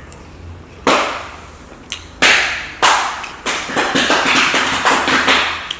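Close-miked eating sounds, mouth noise and breathing: a series of sudden, sharp noisy bursts starting about a second in, the last one running on for about two seconds.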